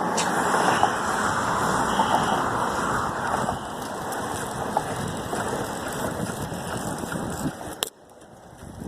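Steady rushing road noise from passing motor traffic while riding along a street. It drops off suddenly near the end with a click, where the recording cuts.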